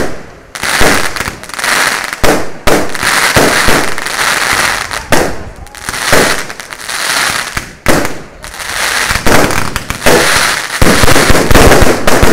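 Aerial firework shells bursting in quick succession, a loud bang about every second, each followed by the hiss and crackle of falling stars. Near the end the bangs come thick and fast in a rapid crackling run.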